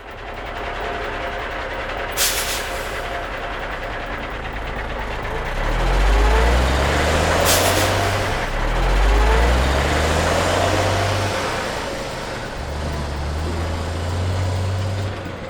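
Animated fire truck sound effects: a steady hiss, two short air-brake-like hisses about two seconds in and near the middle, and from about five seconds in a deep truck engine hum that steps up and down in pitch.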